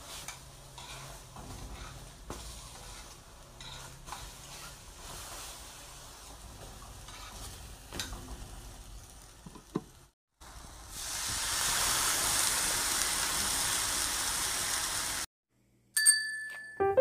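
Food frying in a pan, first quietly with a few sharp clinks of a utensil stirring, then, after a cut about ten seconds in, a louder steady sizzle for about five seconds. It ends with a short bright ding just before the end.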